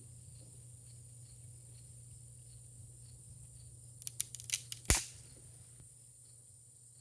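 Crickets and other insects trilling steadily, with a chirp about two or three times a second. About four seconds in, a quick run of sharp clicks ends in one loud crack.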